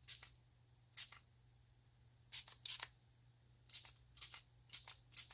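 Hand-pump spray bottle of alcohol squirted about eight times in short hissing spritzes at irregular intervals, misting the wet ink to texture it.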